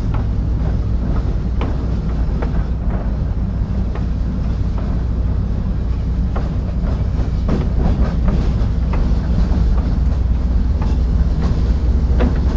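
Train on the move: a steady, heavy low rumble from the locomotive, with irregular clanks and clicks of the wheels over the rails.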